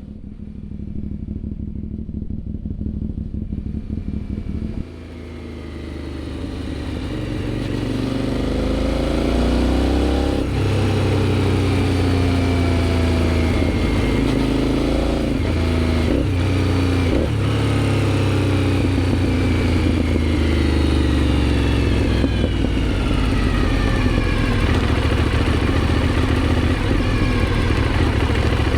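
Aprilia Shiver 750's 90-degree V-twin through a GPR aftermarket exhaust. It runs steadily for about five seconds, then the revs climb and drop back again and again as the bike accelerates through the gears.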